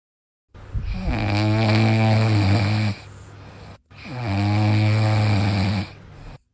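A sleeping dog snoring: two long, low snores with a quieter breath between them.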